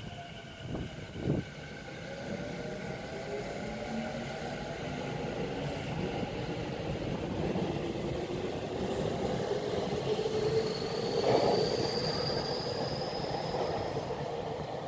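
Tokyo Metro 9000 series electric train running along the platform track, its wheels rumbling on the rails and growing louder as it comes near. From about ten seconds in, a high motor whine rises slowly in pitch.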